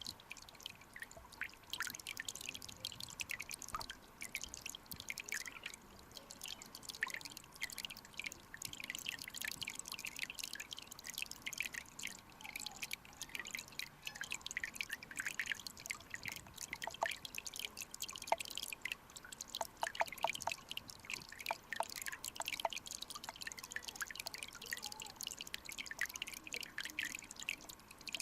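Small mountain stream running over rocks: a dense, irregular patter of drips, plinks and little splashes, with a quick run of clearer plinks about twenty seconds in.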